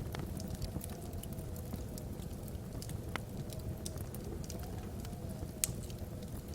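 Wood logs burning in a fireplace: a steady low rumble of flames with irregular small crackles and one louder pop near the end.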